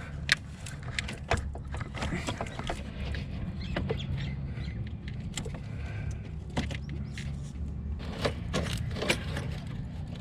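Scattered light metallic clicks and clinks of hands and tools working on a car's gear-shift cable linkage, over a steady low rumble.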